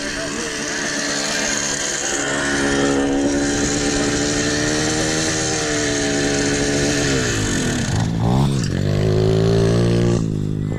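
Single-cylinder pit bike engine running under throttle, its pitch easing slowly up and down. About eight seconds in the revs dip and climb back, as with a throttle lift or gear change, then hold steady.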